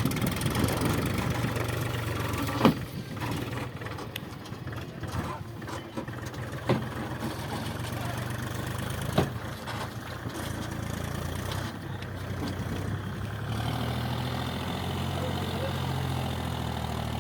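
Diesel engine running at a steady low note, with a few sharp knocks. About three-quarters of the way through the engine gets louder.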